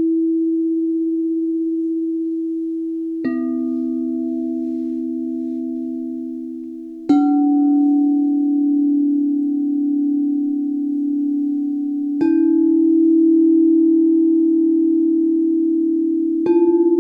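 Singing bowls struck one at a time, four strikes a few seconds apart. Each is at a different pitch and rings on steadily under the next, with a slow wavering pulse in the tone.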